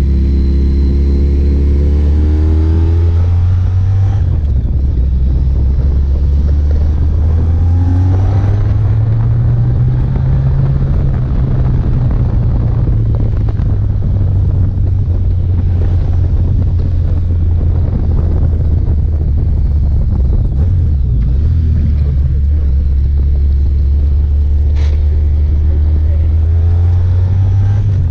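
Honda ST1300 motorcycle's V4 engine running steadily under way with wind noise. Its pitch climbs as it accelerates near the start and again near the end.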